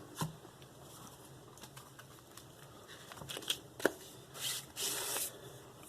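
Handling noise from small objects being picked up and moved: a few light clicks and one sharp tap about halfway through, then two short rustling scrapes.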